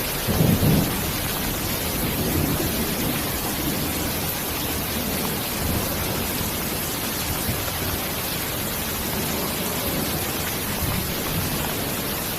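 Steady hiss of heavy rain, with a brief low rumble of thunder about half a second in.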